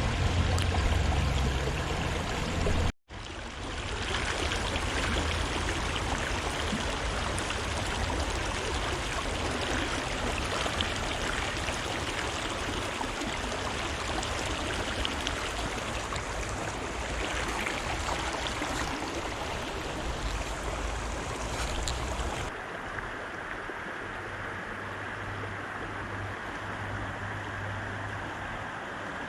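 Fast-flowing river water rushing steadily. The sound drops out for an instant about three seconds in, and about 22 seconds in it turns quieter and duller.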